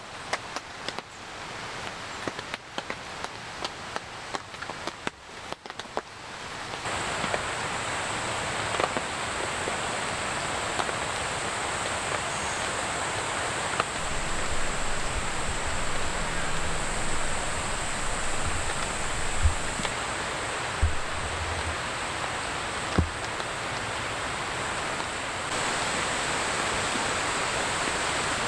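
Rain in a forest. At first scattered drops tap irregularly, then about seven seconds in a steady, even rain hiss takes over.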